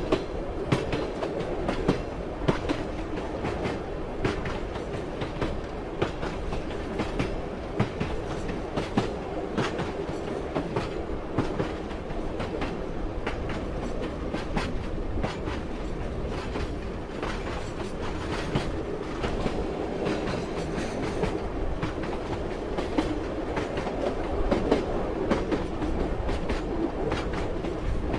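Moving train: a steady rumble of the carriage with the wheels clacking irregularly over rail joints.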